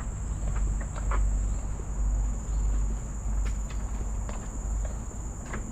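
Insects, likely crickets, keep up a steady high-pitched trill, with footsteps on a forest trail and a few soft ticks.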